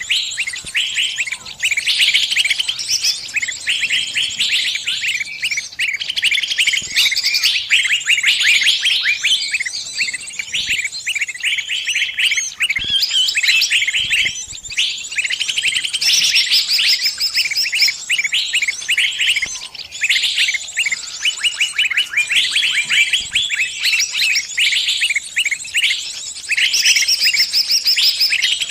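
Small bird giving rapid, nonstop high-pitched chirping distress calls, the calls of a trapped bird crying for help.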